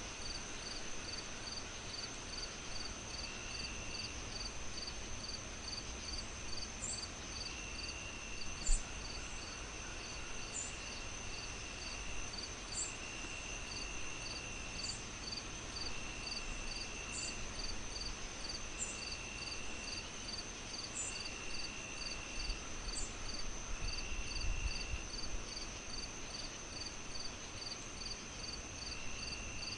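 Night insect chorus, cricket-like: a steady high trill, evenly pulsed chirps about two a second, and a lower chirp that comes and goes every couple of seconds. Underneath is a low rumble, and one sharp pop comes about nine seconds in.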